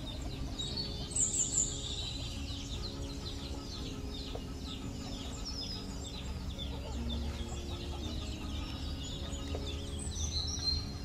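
Many small birds chirping and calling in quick overlapping notes, loudest in a short burst about a second in, over soft background music with long held notes.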